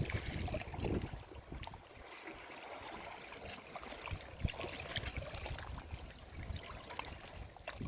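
Sea waves at the shore: a wave's rush dies away about a second in, leaving the fizz and trickle of water running back with many small crackles.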